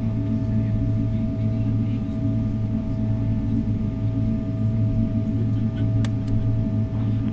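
Cabin noise of a Boeing 777-300ER on the ground with its engines running: a steady low drone with a faint steady whine over it. A single sharp click about six seconds in.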